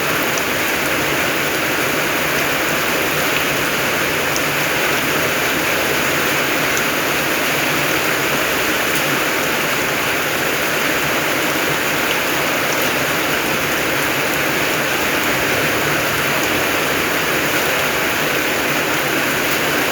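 Steady rain, a constant even hiss with a few faint drop ticks.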